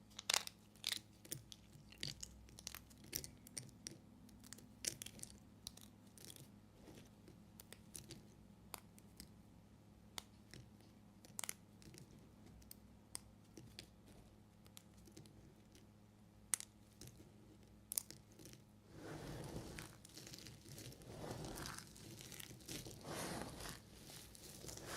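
Knife cutting dry soap: crisp crackles and snaps as the blade breaks through it. For the last several seconds this gives way to longer swells of crunching and crinkling.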